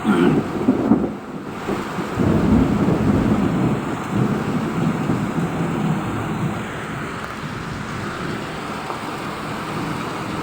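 Thunder over heavy, steady rain: a sudden loud clap at the start, then a low rolling rumble that swells again and dies away over about seven seconds, leaving the rain.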